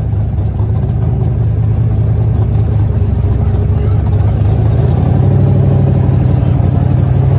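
A vehicle engine running steadily with a low hum, rising slightly in pitch and getting a little louder about five seconds in.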